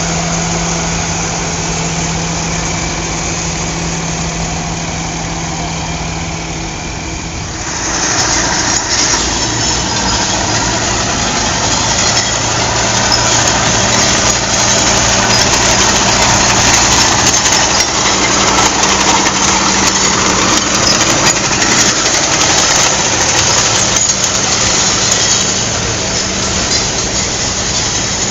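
Tractor engines running as tractors go by in a parade. About eight seconds in, a different, louder engine takes over and stays loud for most of the rest before easing slightly near the end.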